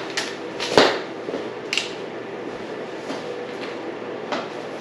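A few scattered knocks and clicks of tools or parts being handled, the loudest about a second in, over a steady background hum.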